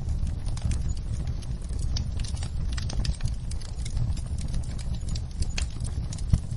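Wood fire burning in a fireplace: logs crackling with dense, irregular pops and snaps over a steady low rumble of the flames, with one louder pop near the end.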